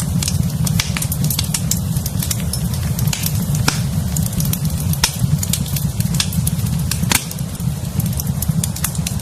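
Fireplace fire crackling: irregular sharp pops and snaps, a few louder than the rest, over a steady low rumble.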